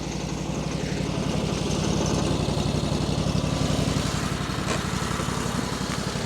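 Engine running steadily, a little louder after about a second.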